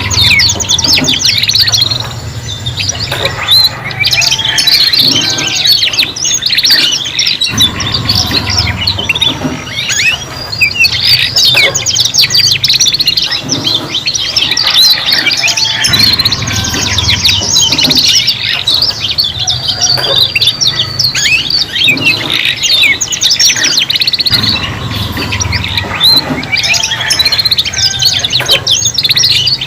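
Young domestic canaries singing together, several voices overlapping in fast high trills, chirps and warbles that run on without a break.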